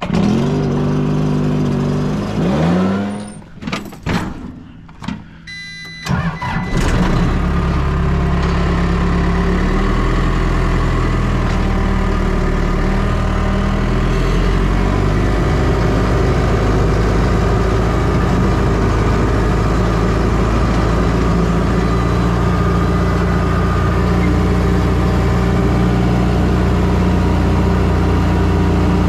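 Backpack leaf blower's engine being started: it catches and rises in pitch, falters, then catches again about six seconds in and settles into steady running.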